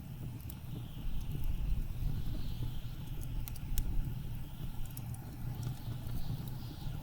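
Blizzard wind with a deep steady rumble and gusts that swell and fade every second or two, over a wood fire in a fireplace giving off a few sharp, scattered crackles and pops.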